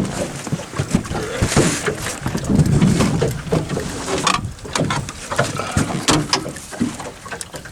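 Water splashing and a run of knocks and clatter against the boat as a hooked channel catfish is brought in, with a burst of splashing about one and a half seconds in.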